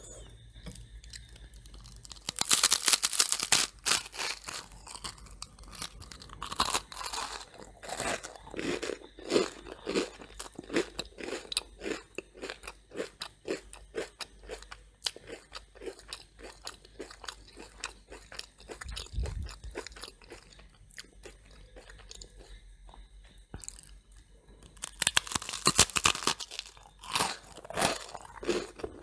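Crunching bites into super crunchy toast, loud about two seconds in and again near the end, with close-up chewing between them.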